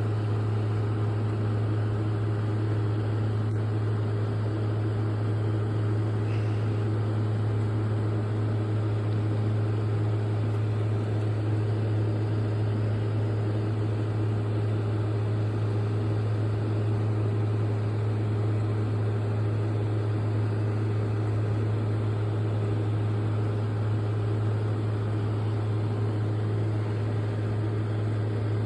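Frigidaire FFRE083ZA1 8,000 BTU window air conditioner running, a steady loud low howl with fainter higher tones over the rush of its fan, unchanging throughout.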